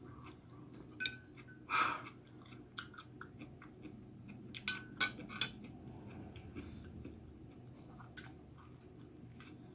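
Close-up chewing of sushi, broken by scattered small clicks and light taps.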